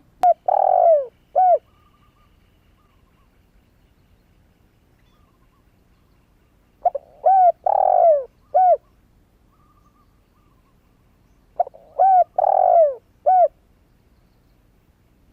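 A young spotted dove, newly come into song, cooing three times. Each phrase is two short coos, a longer arching coo and a short final coo, with the phrases about five seconds apart.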